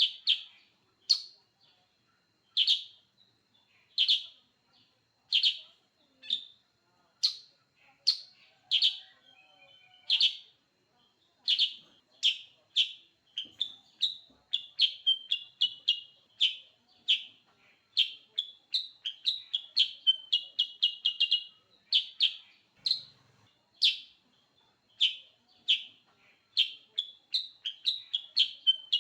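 Kutilang sutra bird calling: short, sharp chirps spaced about a second apart, coming in quicker runs and short trills about halfway through.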